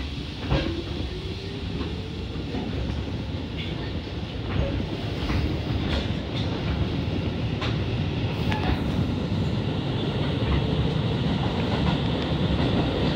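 Keisei electric commuter train pulling away from a station and gathering speed, heard from inside the carriage. A faint motor whine rises in pitch over the first couple of seconds, the running noise grows steadily louder, and the wheels click irregularly over rail joints.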